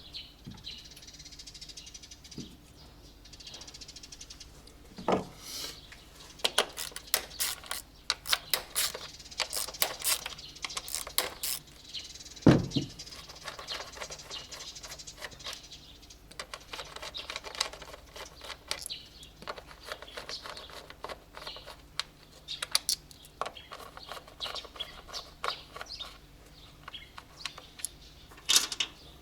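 Irregular clicks and taps in quick runs, with one louder knock about twelve and a half seconds in.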